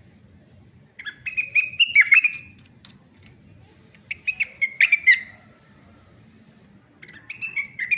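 Young rengganis bird singing: three short phrases of quick, chirpy twittering notes, each lasting about a second and a half, a few seconds apart, the last one running on past the end.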